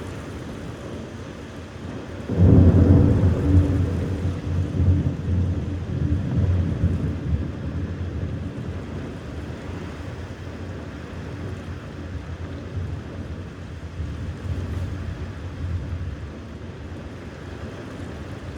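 Thunder: a sudden loud clap about two seconds in that rolls on as a low rumble, fading away over the next dozen seconds, over a steady hiss of rain.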